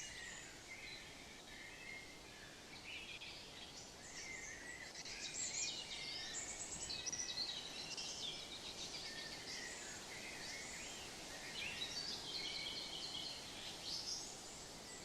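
Many small birds chirping and singing at once, short overlapping calls and trills, over a steady low outdoor hiss.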